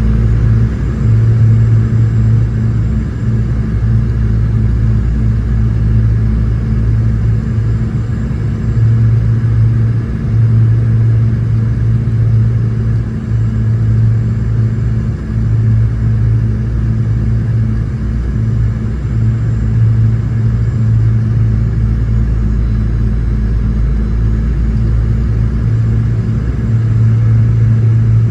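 Aircraft cabin noise aboard a Boeing 717-200: the steady low rumble and hum of its rear-mounted Rolls-Royce BR715 turbofans and airflow, heard from a rear cabin seat. The hum swells and eases slightly, with a faint high whine above it.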